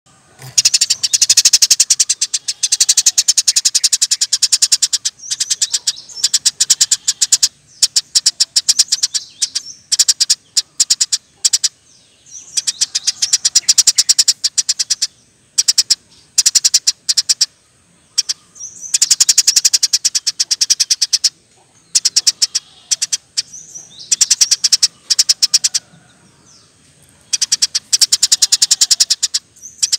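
Eurasian tree sparrow chattering in fast runs of sharp, rapidly repeated chirps, each run lasting a few seconds with short pauses between.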